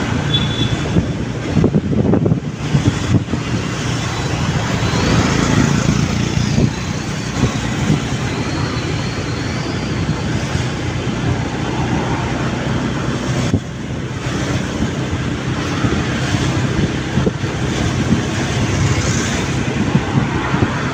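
Motorbike engine running steadily while riding, mixed with road noise and wind buffeting the microphone.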